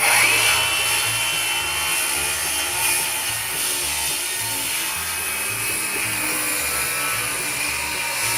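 Power saw cutting wood, starting suddenly with a rising whine, then running continuously through the cut.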